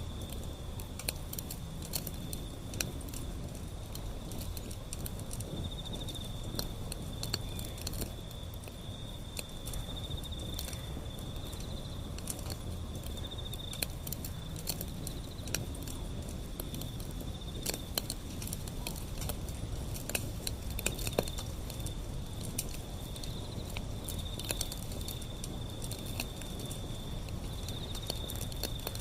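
Wood fire burning, crackling and popping irregularly over a low steady rumble. A steady high-pitched insect trill runs behind it.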